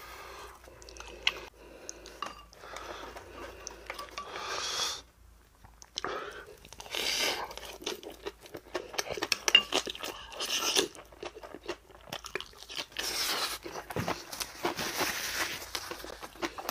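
Close-up crunching and chewing of spicy napa cabbage kimchi, in irregular wet bites with a short pause about five seconds in.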